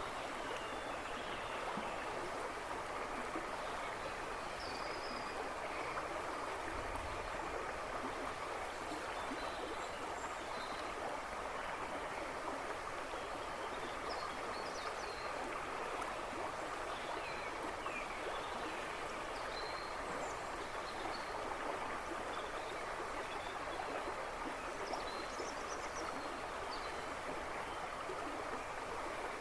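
A river rushing and splashing in a steady flow, with small birds chirping now and then in the woods behind it.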